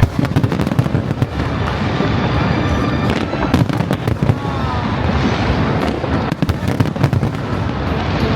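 Aerial fireworks bursting in quick succession: continuous crackling with sharper bangs about three seconds in and again around six to seven seconds in.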